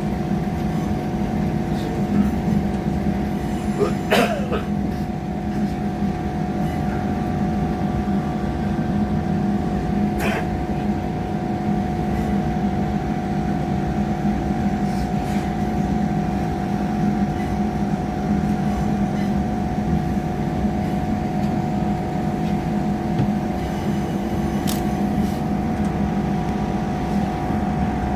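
Train's diesel engine and on-board equipment running with a steady hum, with a couple of faint clicks.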